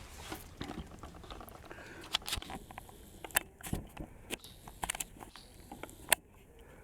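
Irregular light clicks and taps, some rustling, from handling the window frame and the strip being fitted into its channel.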